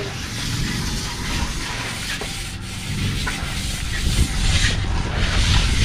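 Steel trowels scraping and rubbing over fresh cement plaster as it is spread and smoothed on a hollow-block wall.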